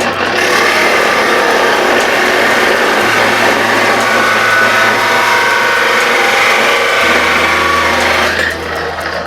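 Electric angle grinder running against steel, its whine wavering in pitch under load, stopping about eight and a half seconds in. Background music with a steady low note plays beneath it.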